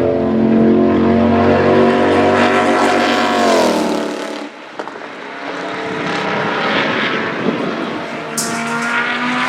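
NASCAR-style V8 race car engine at high revs. Its pitch falls steeply about three and a half seconds in as the car lifts off, then climbs again as it accelerates.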